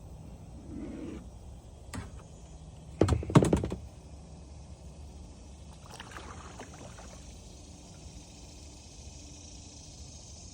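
Knocks on a kayak: a single sharp knock about two seconds in, then a louder cluster of knocks about three seconds in, of the kind a paddle makes bumping the hull, with a softer scraping noise around six seconds in.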